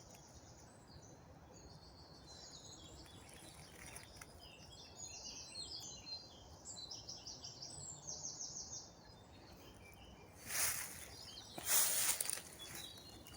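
Woodland birds singing, with quick repeated phrases of notes. In the last few seconds several loud rustles and crunches, a person moving or handling things in undergrowth, cover the birdsong.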